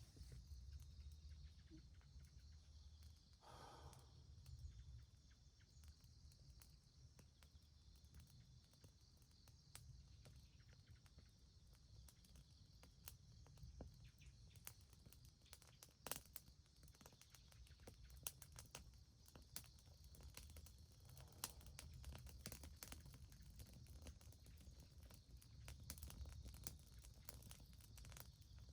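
Near silence: a faint low rumble with scattered small clicks and crackles, and one brief pitched sound about four seconds in.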